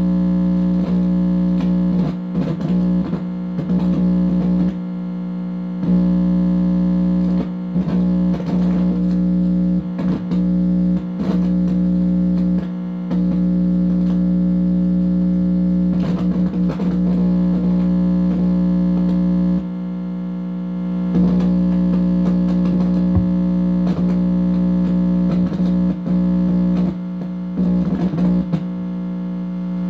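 Electronic buzz from a detector signal played through an amplifier speaker: a steady, loud drone of several held tones with crackles and wavering pitch sweeps now and then, dipping briefly about two-thirds of the way in. The owner takes the signal for directed-energy activity picked up by the receiver.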